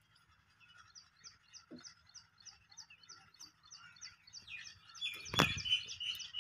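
A small bird chirping over and over, a short high chirp about three times a second, with a second bird calling more steadily near the end. A single sharp knock comes about five seconds in.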